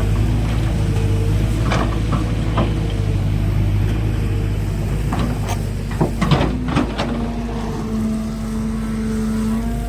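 Kobelco excavator's diesel engine running steadily during loading, with a few sharp knocks and then a burst of clattering impacts about five to seven seconds in, as material and the steel bucket hit the tipper.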